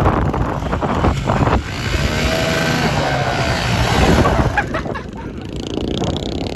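A motor engine revving, its pitch climbing and falling through the middle, then easing off toward the end.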